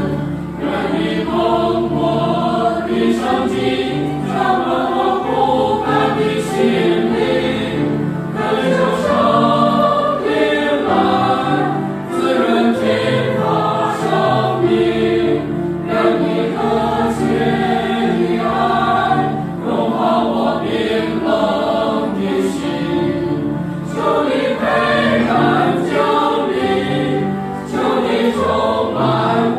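A choir singing, many voices together in sustained phrases.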